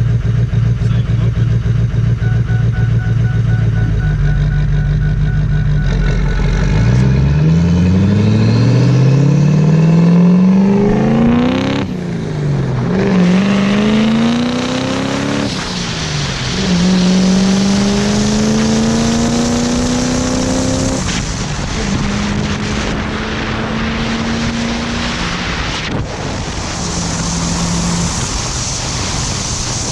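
Diesel engine idling, then pulling away under acceleration: its pitch climbs, drops back at each of two gear changes, and climbs again before settling to a steadier cruise, with a hiss of wind near the end.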